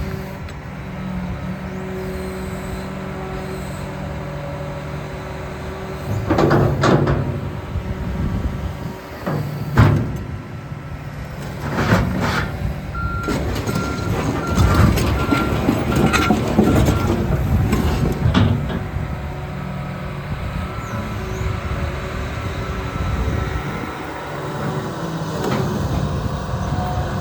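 John Deere 350P hydraulic excavator running, its diesel engine humming steadily, with several loud clanks about 6, 10 and 12 seconds in and busier working noise after. A run of evenly spaced beeps, like a travel alarm, sounds from about 13 to 17 seconds in.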